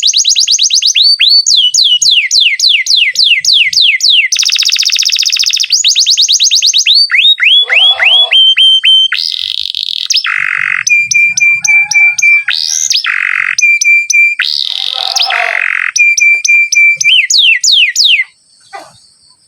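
Domestic canary singing a long, loud rolling song: rapid trills, runs of quick falling notes and level repeated tones, phrase after phrase. It stops abruptly near the end.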